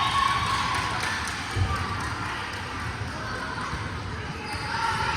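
Gym din during a youth volleyball match: players and spectators talking and calling out, with a volleyball thumping once about a second and a half in.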